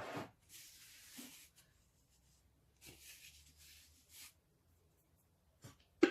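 Faint dry rustling and scraping of flour and salt being handled in a mixing bowl, in two short stretches.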